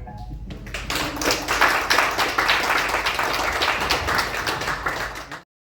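Small audience applauding, starting about half a second in as the song's last chord dies away, then cutting off abruptly near the end.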